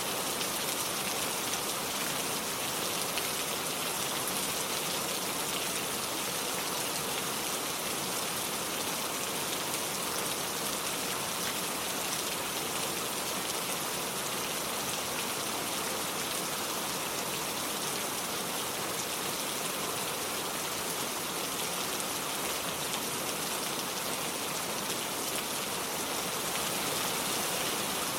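Steady rain falling, a dense even hiss of drops on surfaces and water.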